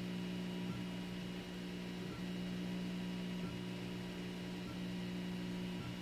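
Zonestar P802M 3D printer printing: its stepper motors give a steady humming whine that changes pitch every second or so as each print move ends and the next begins, over a steady hiss.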